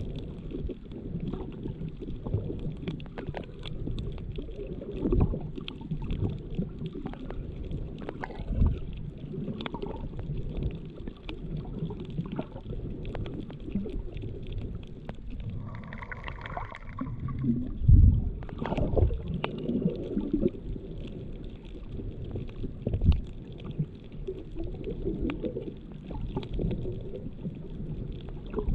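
Underwater sound through a GoPro Hero7's built-in microphone: a muffled low rumble of moving water with scattered knocks and thumps. A short higher-pitched sound comes just over halfway through, followed by the loudest thump.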